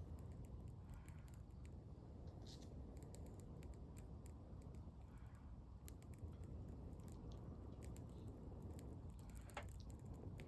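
Small wood campfire crackling faintly, with scattered sharp pops over a low steady rumble.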